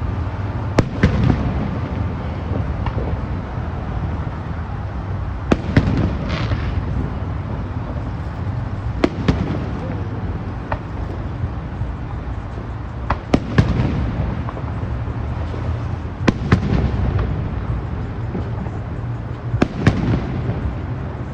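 Aerial fireworks bursting: sharp bangs every few seconds, several coming in quick pairs, over a continuous low rumble of booms.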